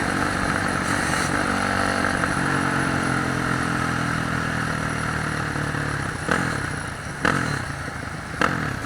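Dirt bike engine running at a steady note, fading away about six seconds in, followed by three sharp knocks.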